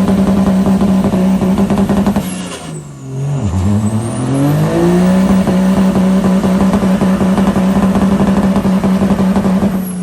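Vehicle engine held at steady high revs during a burnout. The revs drop off about two and a half seconds in, climb back up and hold steady again, then fall away at the very end.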